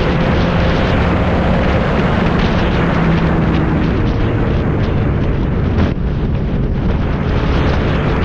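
Motorcycle engine running at a steady pitch under heavy wind rush, with a brief break in the sound about six seconds in.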